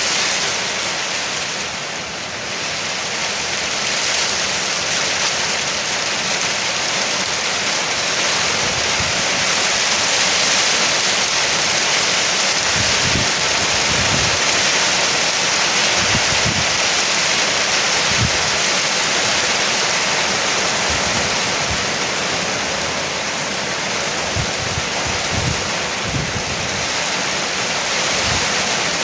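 Heavy rain drumming steadily on a porch roof, a dense even hiss with occasional low thumps.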